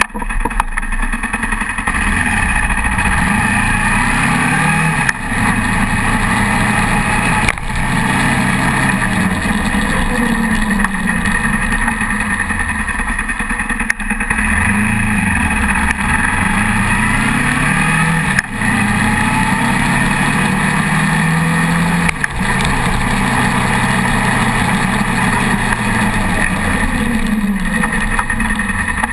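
Motorcycle engine running under way, heard from a camera on the front fork: its pitch climbs and falls again and again, with several short breaks in the sound as the rider shifts through the gears, over a steady rush of wind and road noise.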